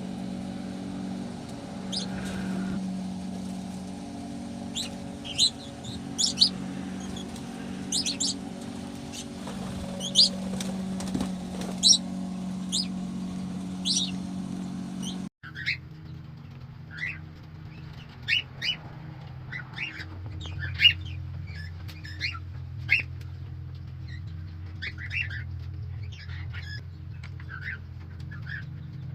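Cockatiels making short, scattered high chirps over a steady low hum.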